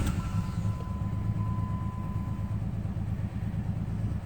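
2006 Jeep Liberty 3.7 L V6 engine just started and running steadily at idle. The engine is one that keeps setting a cylinder 4 misfire code.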